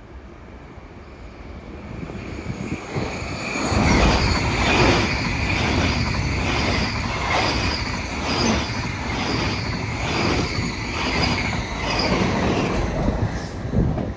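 A train passing close by, growing louder over the first few seconds. It then runs past with a regular clatter of wheels over the rails and high whining tones. The sound cuts off suddenly at the end.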